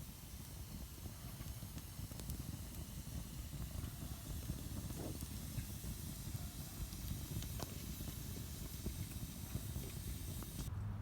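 Wood fire burning in a Solo Stove Campfire stainless-steel fire pit: a steady low rush of flame under a hiss, with a few sparse crackles and pops from the burning wood. The hiss cuts out suddenly just before the end.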